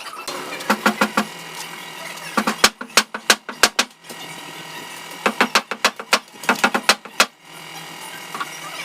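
Sped-up car body repair work: quick runs of sharp knocks or taps in three bursts over a steady hum.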